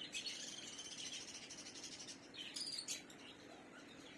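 Faint, high-pitched chirping and twittering of small birds, with a short louder burst of chirps about two and a half seconds in.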